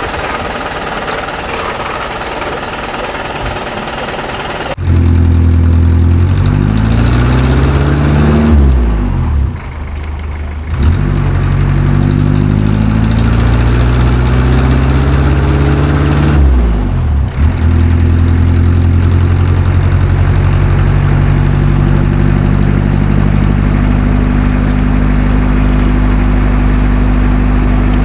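A rattling mechanical noise, then about five seconds in a tractor engine sound cuts in loud. Its revs rise and fall twice before it settles into a steady idle.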